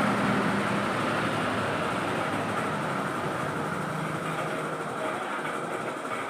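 Steady engine running noise, slightly louder at first and easing a little toward the end.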